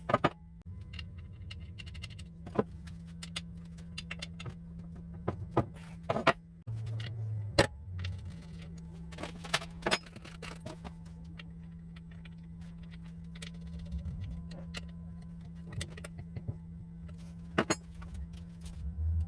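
Small metal parts and hand tools clinking and clicking at irregular intervals over a steady low hum.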